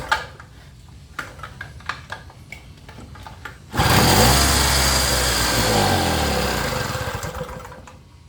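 Gasoline inverter generator's small engine fires suddenly about four seconds in after some light clicking, runs briefly, then slows and fades out as it dies. It catches but won't keep running, with the carburettor's fuel-air mixture still being adjusted.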